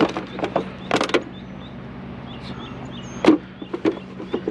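Several sharp knocks and clatters of scrap items being handled and shifted in a curbside pile, the loudest about three seconds in, over a steady low hum.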